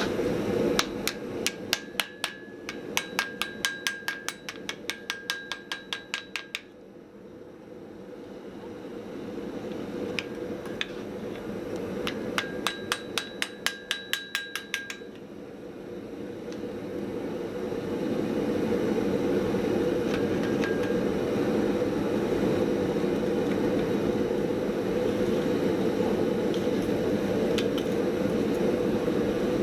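Hand hammer striking hot mild steel on an anvil in quick runs of about four blows a second, each blow ringing, in two bursts separated by a pause. In the second half a steady rushing noise takes over and holds.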